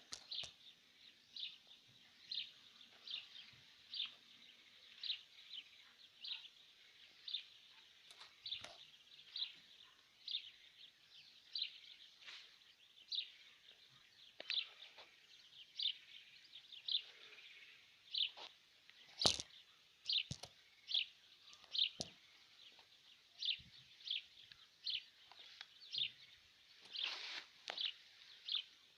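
A bird giving a steady series of short, high calls, a little more than one a second, repeated without a break. A few sharp knocks come about two-thirds of the way through.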